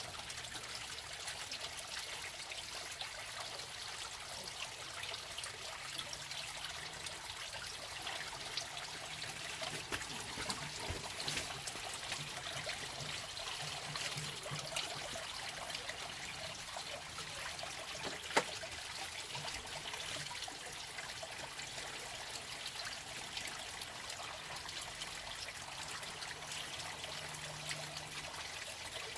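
Water trickling and flowing steadily, as of a small stream, with scattered small clicks and one sharp click about eighteen seconds in.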